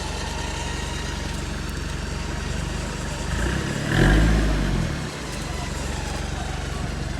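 Off-road 4x4's engine idling, with one brief rev about three to five seconds in that rises and falls back to idle.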